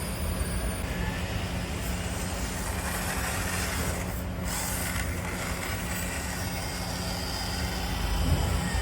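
Mini RC crawler's small electric motor and gearbox whirring steadily as the truck drives.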